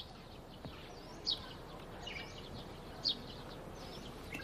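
Faint bird chirping: three short, high chirps spaced a second or two apart, with a few fainter calls in between, over a low, steady hiss.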